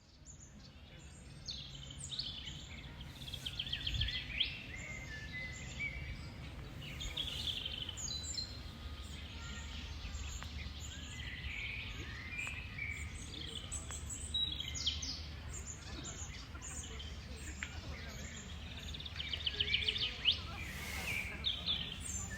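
Several songbirds singing and calling together: chirps, whistled notes and rapid trills, with a burst of trilling a few seconds in and again near the end. A steady low rumble runs underneath.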